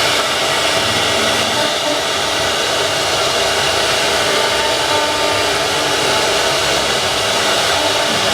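Wood CNC router running a job, its spindle and motor giving a loud, steady whine and rush of noise.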